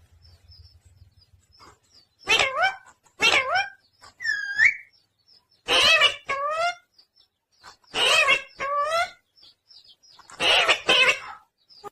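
Pet talking parrot giving a series of short, high, squawky calls in about five bursts, with a single whistle about four seconds in.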